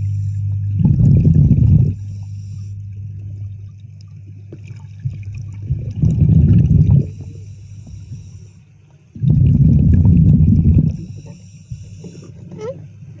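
A diver breathing underwater through a regulator. Exhaled bubbles rumble out three times, about every four seconds, with a fainter hiss of air drawn in between breaths and a steady low hum underneath.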